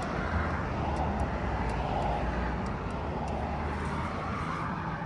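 A motor running steadily with a low hum, cutting off right at the end.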